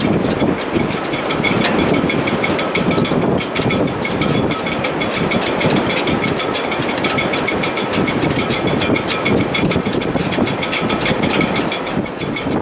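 Wind in a sailboat's shrouds and rigging in heavy weather: a steady rushing din with faint whistling tones over it and a fast, even rattle that runs on without a break.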